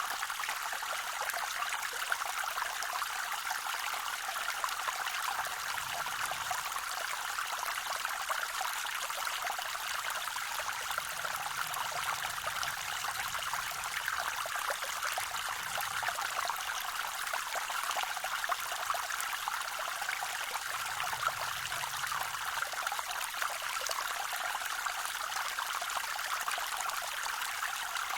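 Small forest creek waterfall: a steady rush and trickle of water spilling over rocks.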